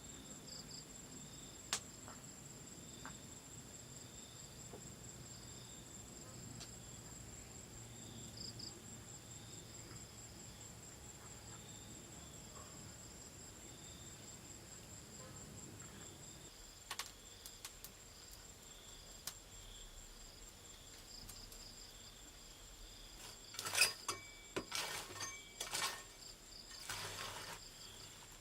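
Rainforest insects calling: one steady high-pitched trill with slower pulsing calls beneath it. A faint low rumble stops a little past halfway, and a handful of sharp knocks and clicks come near the end.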